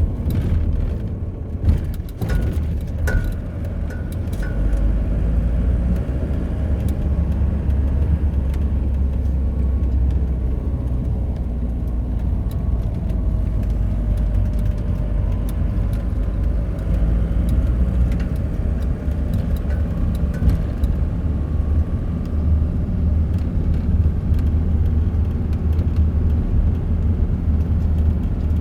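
Steady low rumble of a car driving, with faint tones that slowly rise and fall. A few short clicks come about two to three seconds in.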